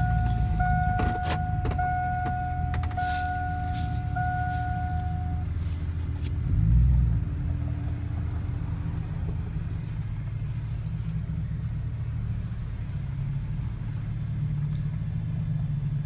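Pickup truck engine idling, with a brief rise about seven seconds in as the truck is moved up. For the first five seconds a steady electronic beep repeats, about one tone a second, over a few sharp clicks.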